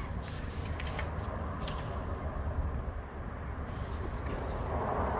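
Steady low rumble of tyre and wind noise from riding a bicycle on a paved street, with a few faint clicks.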